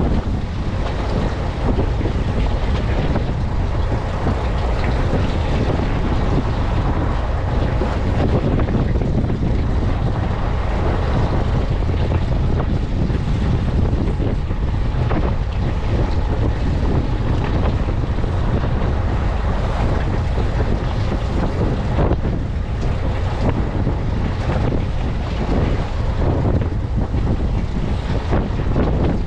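Steady wind buffeting the microphone on a boat at sea, over a constant rumble of boat and water noise.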